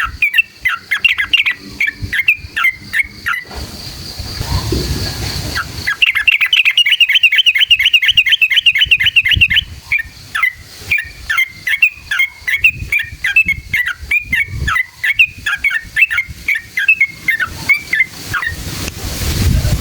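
Yellow-vented bulbul (trucukan) singing bubbling, chattering phrases, broken by a long rapid trill from about six to nine and a half seconds in. A rushing noise fills a short gap before the trill and comes in again near the end.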